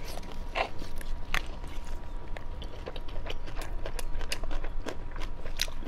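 Close-miked chewing and biting of a saucy grilled sweet-potato starch sheet (kao shaopi) on skewers: irregular mouth sounds with many small sharp clicks and smacks.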